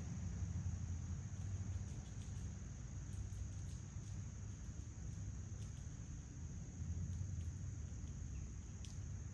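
Outdoor ambience: a steady high insect chorus over a low, even rumble, with a few faint ticks.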